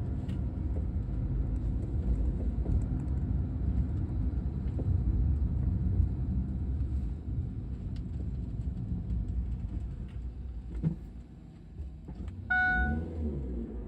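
Road rumble inside a 2012 Chevy Spark's cabin on uneven road, with several single sharp knocks: the knocking that the owner traced to the rear seat folding lever. The rumble eases after about ten seconds, and near the end there is a short beep.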